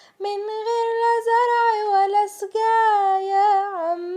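A young woman singing an Arabic song unaccompanied, holding long melodic notes with a short breath about two and a half seconds in.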